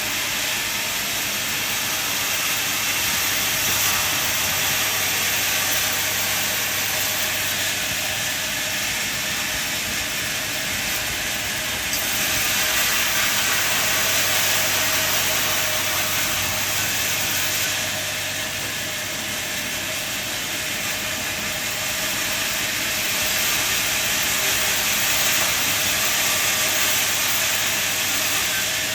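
Sawmill running and sawing wood: a steady hissing saw noise over a low motor hum, swelling louder a few times, about three, twelve and twenty-three seconds in, and easing off between.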